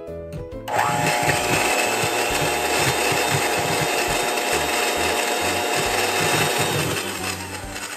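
Electric mixer motor spinning up with a rising whine about a second in, running steadily, then winding down near the end.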